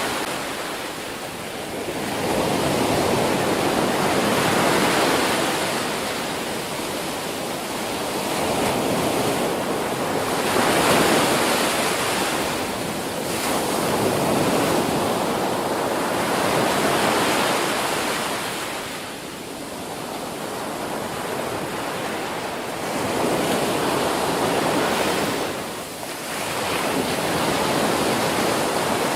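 Ocean surf: waves breaking and washing in, a continuous rush that swells and fades every several seconds.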